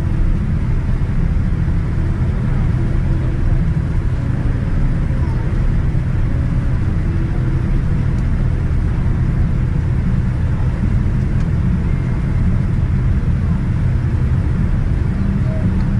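Steady low rumble in the cabin of a Boeing 787-9 airliner still taxiing after landing, with no sudden events.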